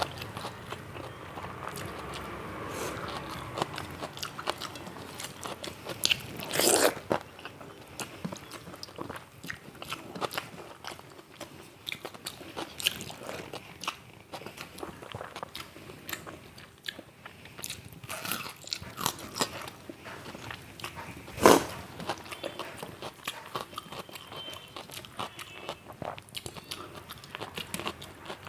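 Close-up chewing and biting, with many small crunches and clicks from a person eating fried food with soaked rice. Two louder crunches stand out, about seven seconds in and again about 21 seconds in.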